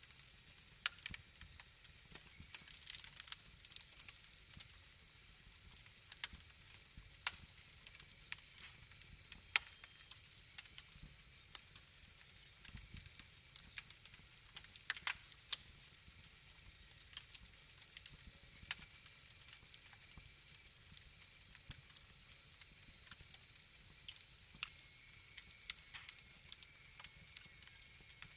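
Wood fire crackling softly, with irregular small snaps and pops and a few sharper cracks.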